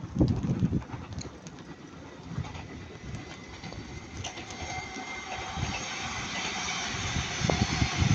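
Northern Class 331 electric multiple unit approaching, its running noise growing steadily louder, with a thin steady high whine over the rush.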